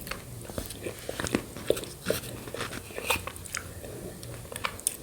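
Close-miked eating sounds of yogurt with shredded coconut: irregular wet mouth smacks and small chewing clicks.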